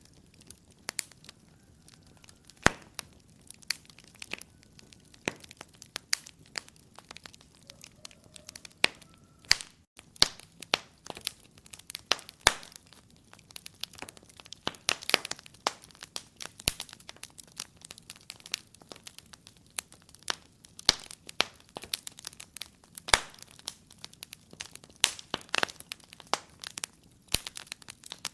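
Fire in a fireplace crackling, with irregular sharp pops and snaps that come sparsely at first and grow denser after about ten seconds.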